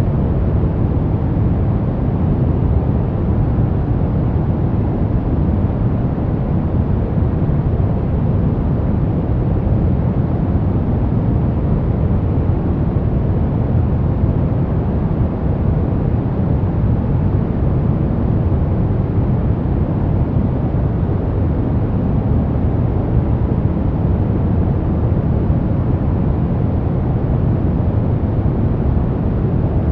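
Steady, unchanging synthetic noise of a sleep-noise track, weighted to the low end like a deep rushing hiss rather than a bright one.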